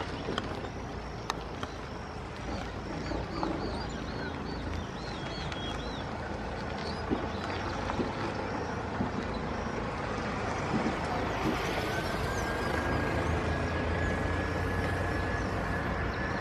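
Airbus A319 jet engines running up for takeoff: a broad rushing roar that grows louder over the second half, with a steady whine appearing about twelve seconds in and rising slightly. Small bird chirps are heard early on.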